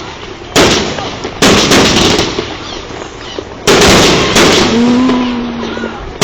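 Fireworks display: about five loud booms of shells bursting close by, each trailing off in a rumbling echo, two of them coming close together about a second and a half in.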